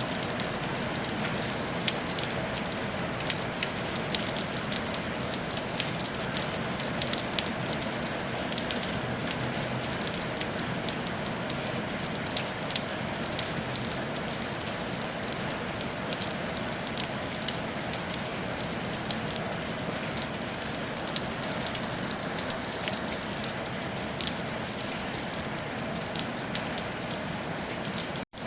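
Steady rain falling on a tile roof: a continuous hiss dotted with many individual drop ticks. The sound cuts out for a split second near the end.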